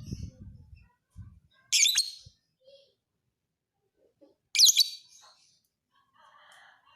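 Lovebird giving two loud, shrill chattering calls, about two seconds and four and a half seconds in, with softer chirps between them. A low rumble sounds under the first second.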